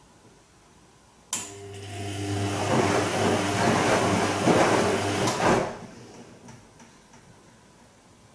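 Bosch Serie 2 Vario Perfect washing machine: a click about a second in, then a steady hum with water rushing that grows louder for about four seconds, cut off by another click, with a few faint ticks after.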